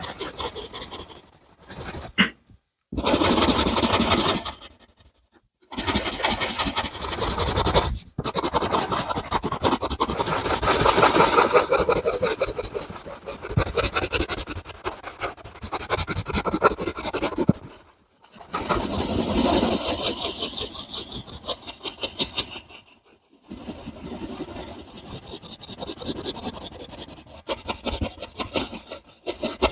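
Drawing or colouring tool scratching and rubbing on paper in rapid back-and-forth strokes, broken by a few short pauses.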